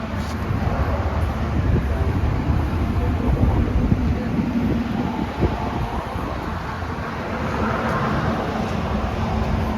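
Steady, loud low rumble of a vehicle, with a faint steady hum running through it.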